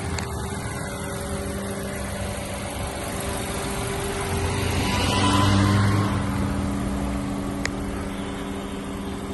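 Honda CR-V's 1.5-litre petrol engine idling with a steady low hum, swelling briefly about five seconds in. A single sharp click near the end.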